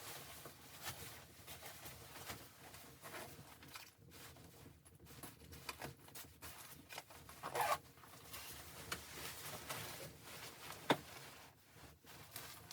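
Irregular scratchy rustling and scraping noises, with a louder scrape about seven and a half seconds in and a sharp click near eleven seconds.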